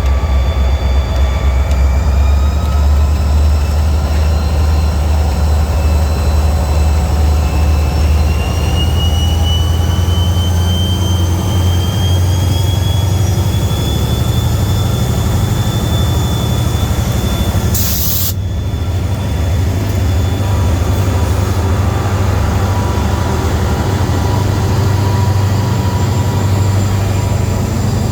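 EMD SD40-2 diesel-electric locomotives with their 16-cylinder two-stroke engines running under load: a deep, steady engine rumble with several whining tones that rise slowly in pitch over the middle of the stretch. A brief hiss cuts in about eighteen seconds in.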